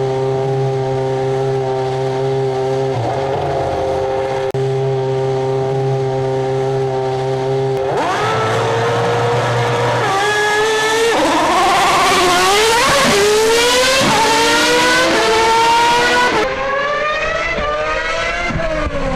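Racing car engine running at a steady idle, then revving up and down again and again from about eight seconds in.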